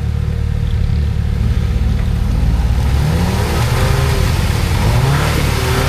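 Off-road 4x4's engine running under load, revved up and down repeatedly from about halfway through as the driver tries to drive out of a deep mud hole, without getting free.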